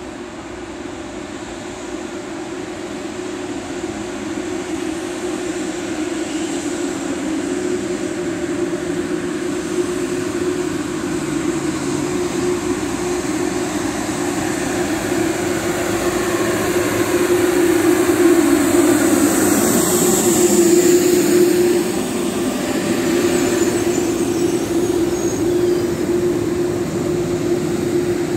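Frecciarossa ETR 500 high-speed electric train approaching and running in along the platform. Its steady hum and rolling noise grow louder, peak about three-quarters of the way through, then ease slightly as the coaches pass close by.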